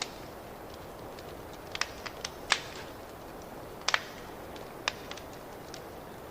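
Wood fire crackling in a fireplace: irregular sharp pops and snaps over a steady soft hiss, the loudest pops about two and a half and four seconds in.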